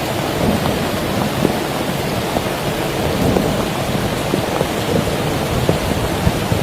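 Heavy rain falling steadily, with many separate drop hits heard through the dense wash.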